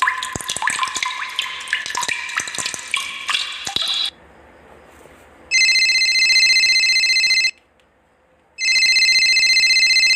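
Water drops plopping for about four seconds, then a telephone ringing twice, each trilling ring lasting about two seconds.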